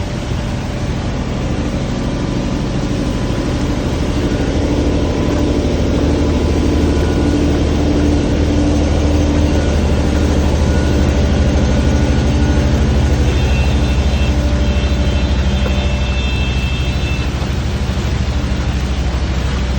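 An engine running steadily: a loud low hum that holds one pitch, with faint high tones coming in briefly a little past the middle.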